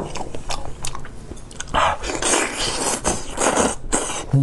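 Close-miked wet chewing and biting of braised trotter skin and tendon, in irregular bursts. It ends with a short falling "mm" hum.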